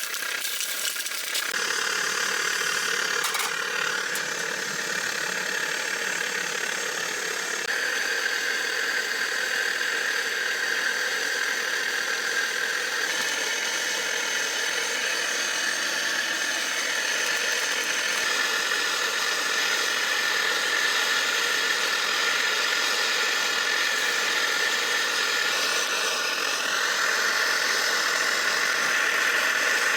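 Water heating toward the boil in a pot or kettle over a camp stove: a steady hiss with a shifting hum of tones, growing slightly louder.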